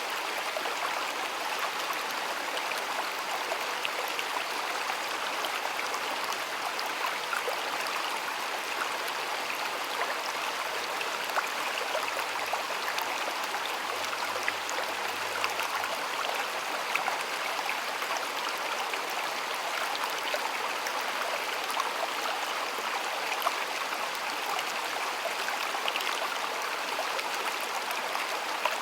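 A stream of flowing water, a steady rushing and splashing with small drips and gurgles scattered through it.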